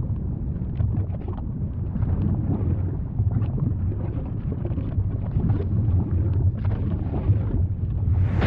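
Volcanic eruption: a deep, steady rumble with scattered small crackles, swelling into a louder rushing blast near the end.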